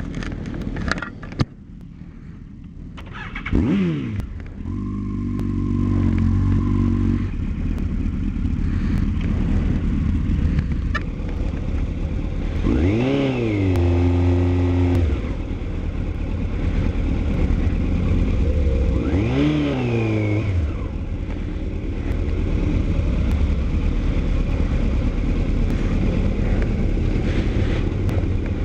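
Motorcycle engine running steadily and revved up and back down twice, about 13 and 19 seconds in, after a few clicks and a falling whine at the start.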